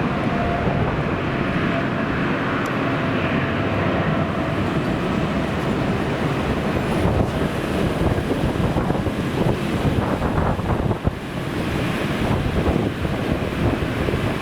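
Strong wind buffeting the microphone, over the rumble of a jet airliner's engines whose faint steady whine fades out over the first few seconds.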